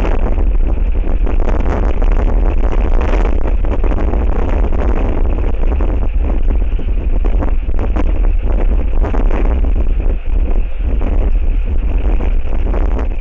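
Strong gusting wind buffeting a wildlife camera's microphone: a loud, continuous low rumble with a rushing hiss over it.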